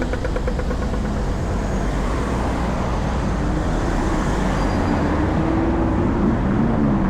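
Road traffic passing: a steady rush of tyres and engines that swells in the middle, with a vehicle's engine hum near the end that dips and then rises in pitch.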